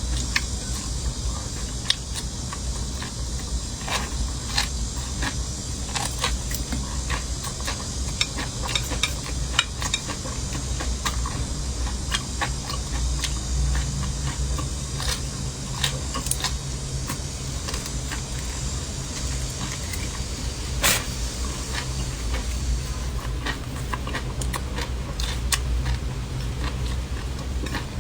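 Eating sounds: many short, scattered clicks and crunches of chewing and utensils over a steady low hum and hiss, the hiss dropping away near the end.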